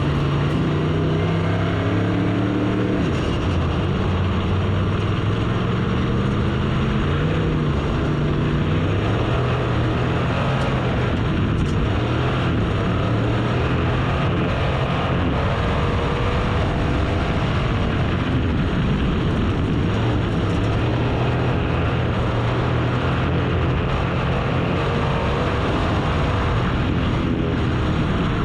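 Race car engines running at speed, their pitch rising and falling over and over as the cars accelerate and back off.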